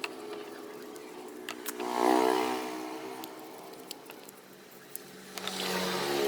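An electric power tool's motor running, swelling in level about two seconds in and again near the end, with scattered sharp metallic clicks.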